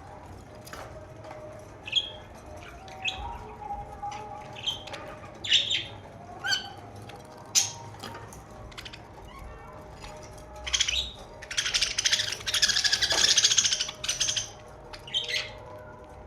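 Pet budgerigars chirping: short, sharp chirps spaced a second or so apart, then a dense, buzzy run of warbling chatter about eleven seconds in that lasts two to three seconds and is the loudest part, followed by a couple more chirps.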